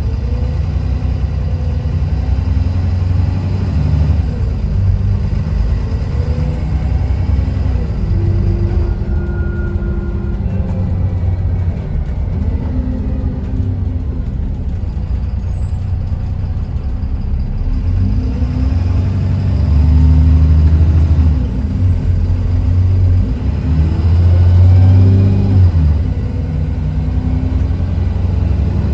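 Diesel engine of a Dennis Trident 2 Enviro400 double-decker bus running under way, its newly fitted replacement engine. The engine note steps up and down as it accelerates and changes gear, growing louder about twenty seconds in and again around twenty-five seconds.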